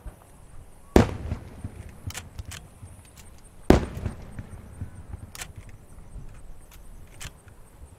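Aerial fireworks shells bursting: two loud booms, about a second in and just before the four-second mark, each trailing off in a low rumble, with several fainter cracks between and after.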